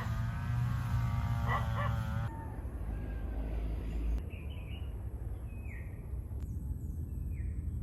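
A cow lets out one long moo lasting over two seconds. A few short, falling bird chirps follow in the second half.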